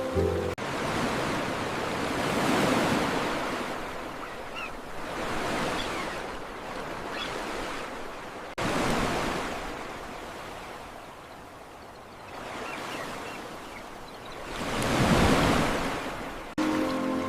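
Ocean waves surging in and washing back in several slow swells, the loudest near the end, with abrupt cuts about half a second in and again about eight seconds in.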